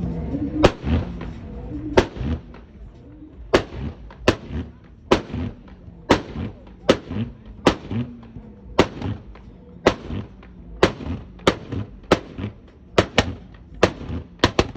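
Car exhaust backfiring in sharp bangs, the pops and flames of a tuned exhaust at a car meet. There are about eighteen bangs, roughly one a second and coming faster near the end, with the engine running in between.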